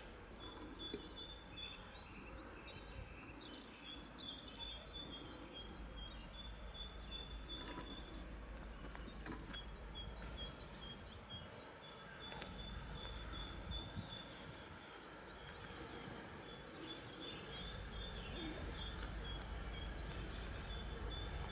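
A small songbird singing long runs of quick, evenly repeated high two-note phrases over faint outdoor background noise. A low rumble grows louder in the last few seconds.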